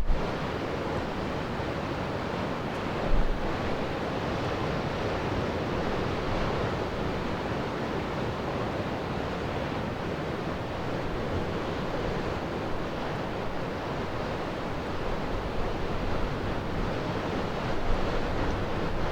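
Steady wash of surf mixed with wind blowing on the microphone, with a couple of brief low bumps from gusts near the start and about three seconds in.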